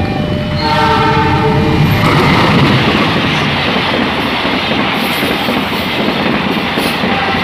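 A passenger train's horn sounds for about a second and a half, then the train passes close by with a loud, steady rumble and wheel clatter on the rails.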